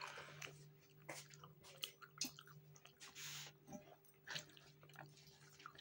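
Faint chewing and wet mouth sounds of a person eating rice and fish curry by hand, with scattered small clicks and a brief hiss about three seconds in. A faint steady hum runs underneath.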